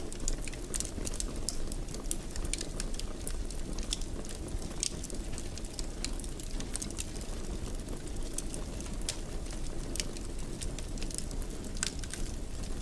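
Fireplace fire crackling: irregular sharp pops and snaps over a steady low rush of flames.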